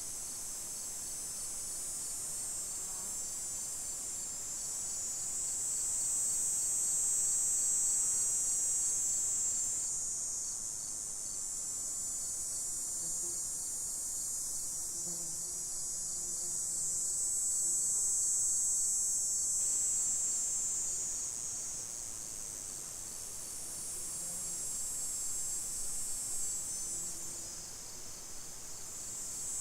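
A chorus of insects trilling high-pitched, swelling and fading in slow waves about every ten seconds.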